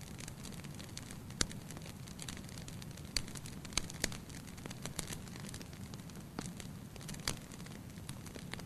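Fire burning in a fireplace: a steady low hiss with sharp, irregular crackles and pops, roughly one a second.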